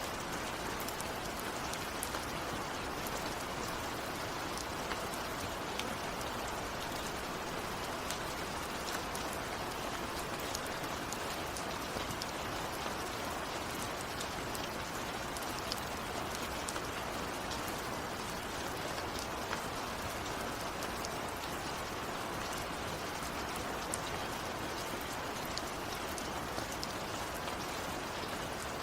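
Steady heavy rain falling, a constant hiss with many individual drops pattering on a surface.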